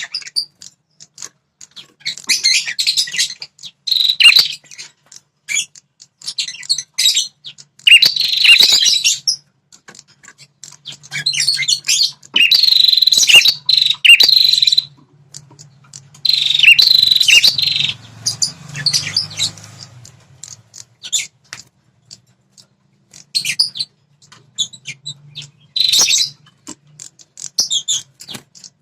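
Prenjak kepala merah songbird singing in repeated loud, rapid chirping phrases, each lasting a second or two with short pauses between, the kind of territorial song used to provoke male prenjak into answering.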